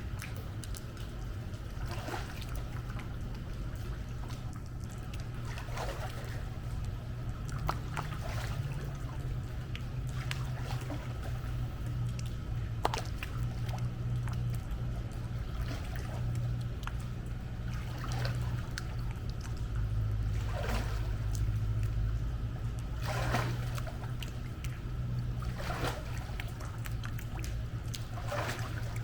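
Pool water sloshing and splashing in repeated bursts every couple of seconds, over a steady low hum.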